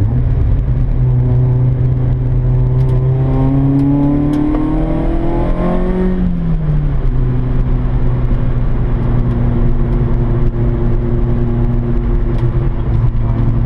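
Peugeot 106 Rallye's four-cylinder petrol engine heard from inside the cabin while being driven hard on track. The revs climb for several seconds, drop about six seconds in, then hold steady.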